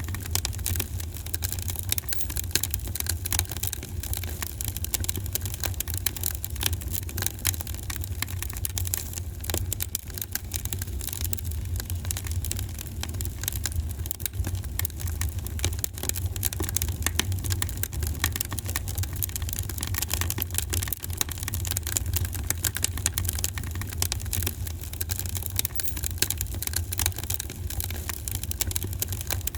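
Wood fire in a fireplace crackling, with many small pops and snaps over a steady low rumble of the flames.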